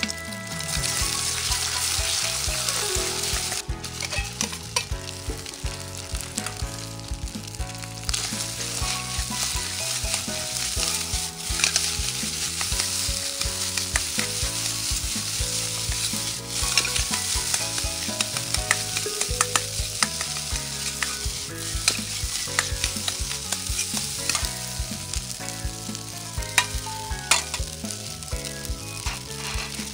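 Fried rice sizzling in a hot iron wok as it is stir-fried, with a metal ladle scraping and clicking against the pan throughout.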